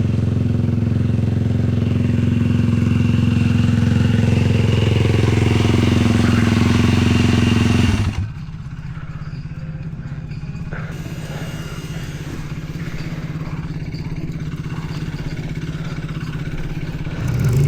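450-class sport quad's single-cylinder four-stroke engine running steadily under throttle, then cutting back abruptly about eight seconds in to a quieter, steady run.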